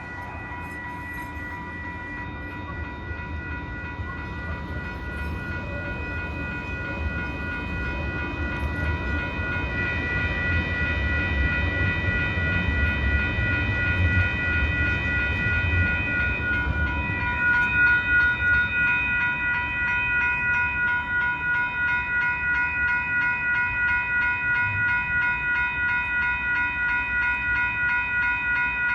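Grade crossing warning bells ringing steadily, pulsing about twice a second, while a train rumbles past. The rumble is strongest a little under halfway through.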